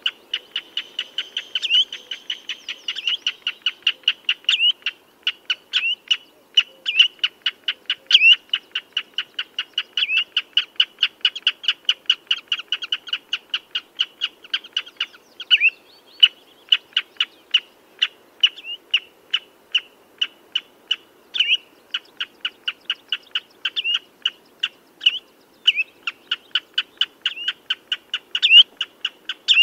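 Common redshank calling: a fast, insistent series of short piping notes, about four a second, with now and then a louder down-slurred note, as in the species' alarm calling. A faint low hum runs underneath.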